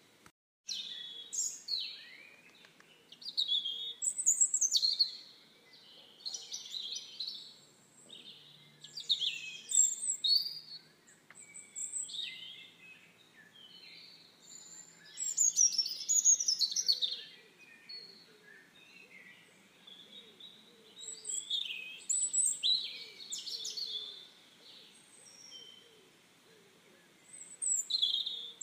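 Several songbirds chirping and calling, with quick high trills and short phrases following one another every second or so over a faint background hum.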